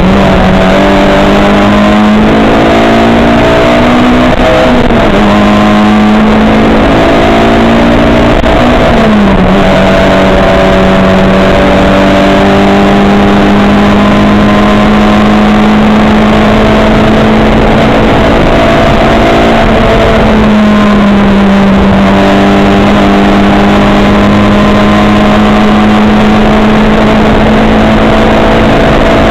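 Racing car engine running hard at high, steady revs, its pitch dipping briefly and climbing back a few times as the driver lifts or changes gear, about 5, 9 and 20 seconds in.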